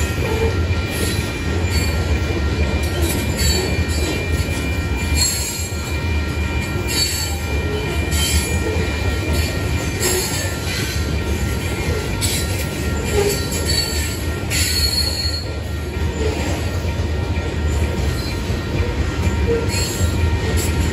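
Covered hopper cars of a Union Pacific grain train rolling past: a steady low rumble of steel wheels on rail, with wheels squealing in thin high tones that flare up and fade again and again.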